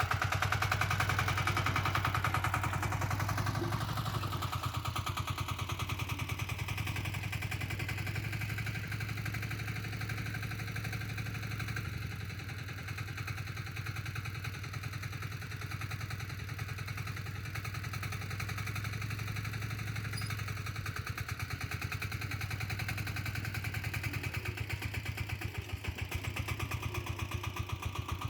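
Diesel two-wheel tractor engine running steadily with closely spaced firing pulses. It eases off somewhat in the middle, then picks up again near the end.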